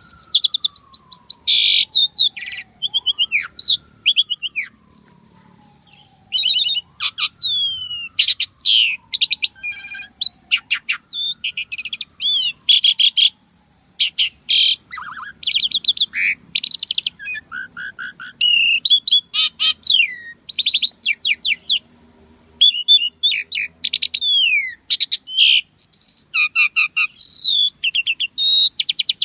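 Asian pied starling (jalak suren) in full song: a fast, unbroken run of varied whistles, sliding notes, rattles and harsh chattering phrases with short pauses between them.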